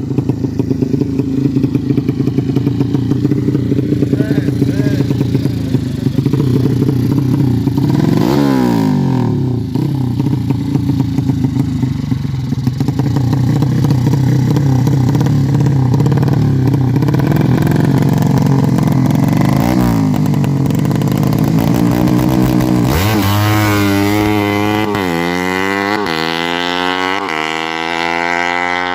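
Yamaha Jupiter-based 200cc four-stroke drag-bike engine running steadily, with its new PWK Sudco 33 carburettor being set up. There is a short throttle blip about eight seconds in and another around twenty seconds, then a string of quick revs over the last six seconds.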